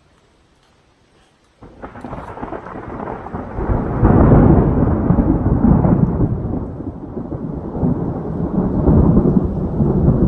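Thunder cracking suddenly about a second and a half in, then a long, loud rolling rumble that swells twice.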